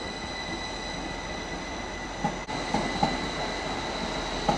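Northern Class 333 electric multiple unit moving off, with a steady high whine over the rumble. Several wheel clunks over the track come just after halfway and again near the end.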